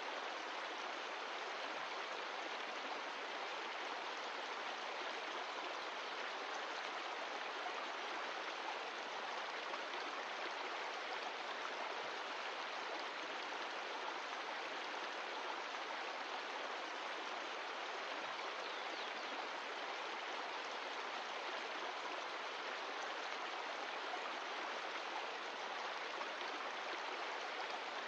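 Mountain stream flowing, a steady, even rush of water with no pauses or changes.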